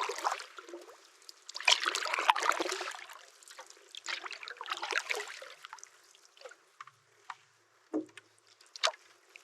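Canoe paddle strokes in calm lake water: a swirl and trickle of water with each stroke, about every three seconds. In the quieter second half, a few light knocks.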